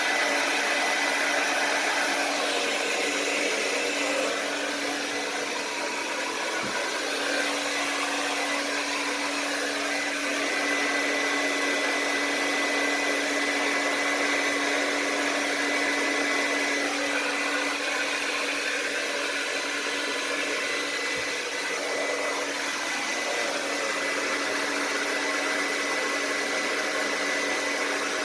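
Handheld blow dryer running steadily: a continuous rush of air over a steady motor hum.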